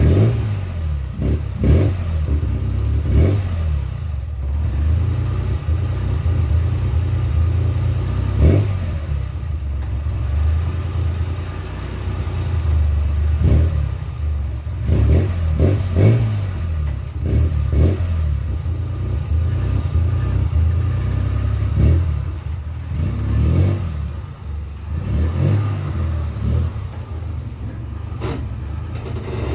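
A vehicle engine running with a steady low rumble, with scattered knocks and clatter over it.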